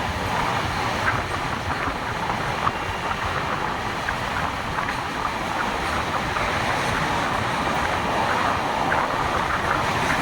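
Express passenger train running on the track: a steady rumble and rattle of the moving coaches, with scattered faint clicks from the wheels and rails.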